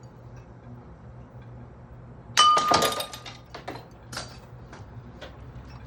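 A ceiling fan being smashed: about two and a half seconds in, a sudden loud crash with a ringing clink, followed by a couple of seconds of scattered clattering and rattling pieces.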